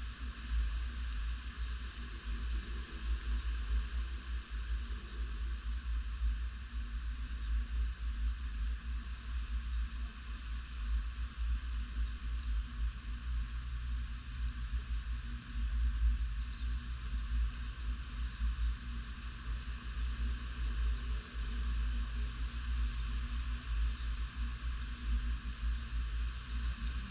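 Tropical-storm wind buffeting the microphone in an unbroken, gusting low rumble, over a steady hiss of the storm.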